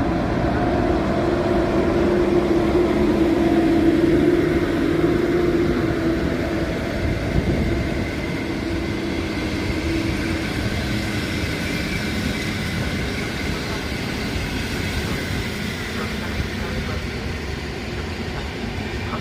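Electric passenger train pulling out of the station behind an EP07 electric locomotive, with its coaches rolling past on the rails. A steady hum is loudest in the first few seconds and fades after about ten seconds as the train moves away.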